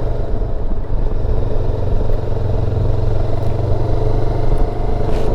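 Motorcycle engine running at a steady cruise, heard from on board the moving bike with a steady low wind rumble on the microphone.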